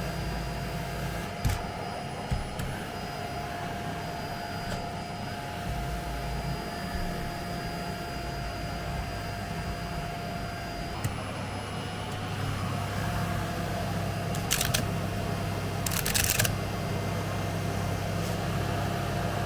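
Vacuum cleaner running steadily, a droning motor hum with a held whine, with a few short clicks and knocks on top, notably about a second and a half in and twice more near the end.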